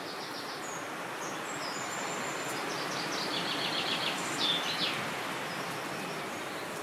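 Several birds chirping and singing over a steady rush of wind, with a quick trill of repeated notes about three seconds in and a few louder chirps shortly after.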